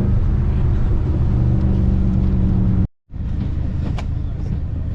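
Car engine running at steady revs with tyre and road rumble while driving. It cuts off abruptly about three seconds in, then comes back as a rougher rumble with a couple of faint clicks.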